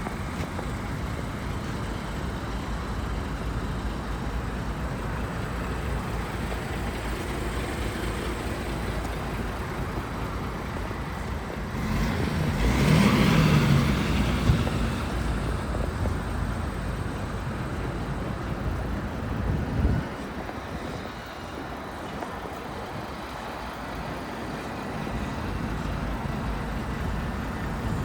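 Heavy truck engine running with a steady low rumble. It grows louder for a couple of seconds around the middle, then a knock about twenty seconds in, after which the deepest rumble drops away abruptly.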